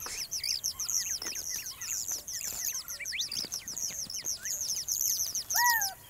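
Small birds chirping: a fast, steady run of high, thin, downward-sliding chirps, several a second, with one lower, louder call near the end.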